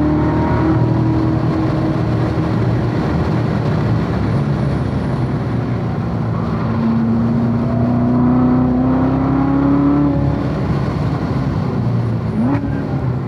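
Chevrolet C7 Corvette Z06's supercharged 6.2-litre V8 running hard on a race track, its pitch climbing under acceleration twice, with a quick rev blip near the end.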